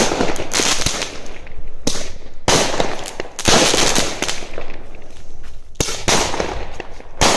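Consumer fireworks going off: a quick run of sharp bangs and dense crackling, with a fresh loud burst about every two to three seconds.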